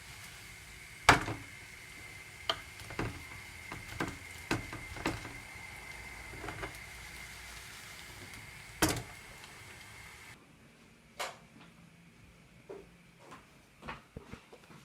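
Kitchen handling noises: a series of sharp knocks and clicks, the loudest about a second in and again near nine seconds, over a faint steady high hum that stops about ten seconds in.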